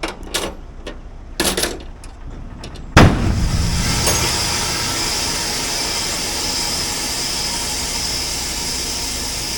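A cracked air-ride suspension airbag on a trailer's rear axle bursts under pressure: a few light clicks, then about three seconds in a sudden loud bang, followed by a steady hiss of compressed air escaping from the blown bag.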